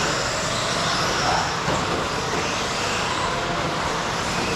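Radio-controlled stadium trucks running on the track: a steady mix of motor whine and tyre noise, with faint rising and falling pitches as the trucks speed up and slow down.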